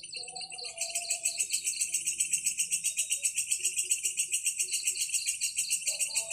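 Insects chirping in a rapid, rattling pulsed trill, about seven pulses a second, loud and high-pitched. It starts about a second in and cuts off near the end, over another insect's slower, steady pulsing.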